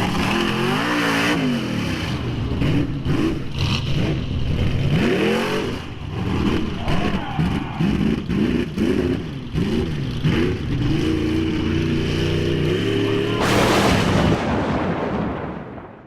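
Mega truck engine revving hard in quick repeated blips, its pitch rising and falling over and over, then holding steady before a loud rush of noise about three-quarters through. It all fades out at the end.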